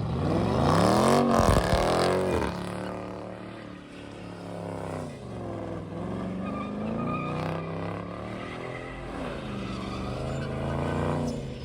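Car engine revving hard over and over, its pitch climbing and dropping; the loudest rev peaks and falls away about a second in, followed by several smaller swells.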